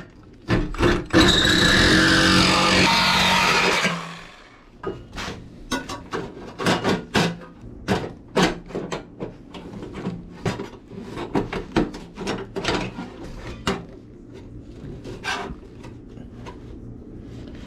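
A handheld power tool runs against the fender sheet metal for about three seconds and winds down. It is followed by a long string of sharp, irregular taps and clicks of metal work.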